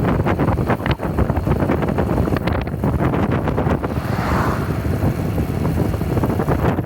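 Wind buffeting the microphone on a moving Honda Cub Pro 110 motorcycle, its single-cylinder engine running underneath the gusts.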